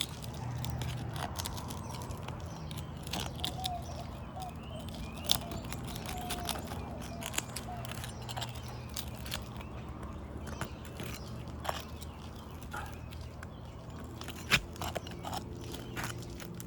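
Asphalt roof shingles being worked loose and their sealant strips broken: irregular crackling, snapping and scraping, with a couple of louder snaps, as the brittle shingle tears. A low steady hum runs underneath.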